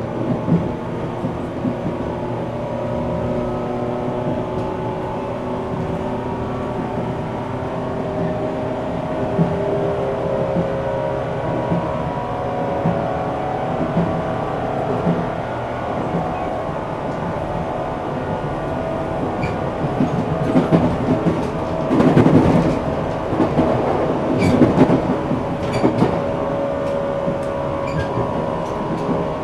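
Onboard running sound of a 475 series electric train, heard inside the motor car KuMoHa 475-42. A steady hum from the motors and gears runs over the rumble of the wheels, with scattered rail-joint clicks. Between about 20 and 26 seconds in there is a stretch of louder, denser clattering.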